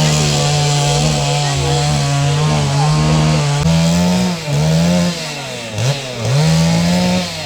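Two-stroke chainsaw running at high revs. Its engine note dips and rises again several times in the second half as it works through wood.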